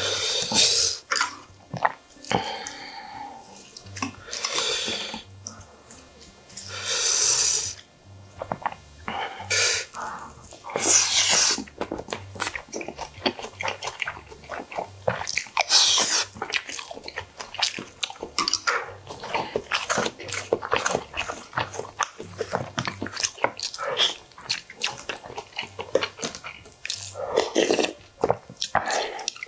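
Close-miked eating sounds: a man chewing mouthfuls of rice and side dishes, with many quick wet mouth clicks and smacks and a few louder noisy bursts of eating.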